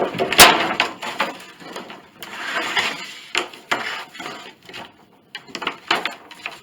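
Old wooden boards knocking and scraping against one another as they are shifted in a pile. A sharp wooden clack comes about half a second in, and a longer scrape around two to three seconds in.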